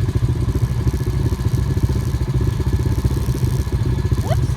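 Off-road vehicle engine running steadily, with a rapid, even firing pulse. A voice begins just before the end.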